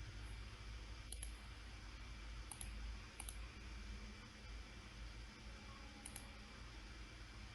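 Faint computer mouse button clicks, four in all, mostly quick double clicks a second or more apart, over a steady low hum.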